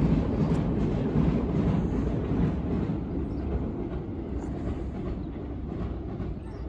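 Train crossing the steel Forth Bridge overhead: a low, heavy rumble that gradually fades away.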